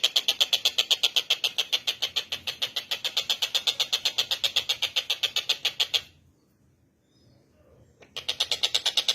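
Tengkek buto calling: a long, rapid, high-pitched rattle of about ten even notes a second. It breaks off about six seconds in, pauses for two seconds, then starts again near the end.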